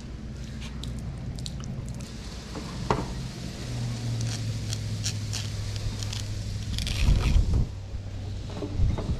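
Wet squishing and scraping of a trout being cleaned out by hand, short scrapes and clicks scattered throughout, over a steady low hum. A couple of louder low bumps come about seven seconds in and again near the end.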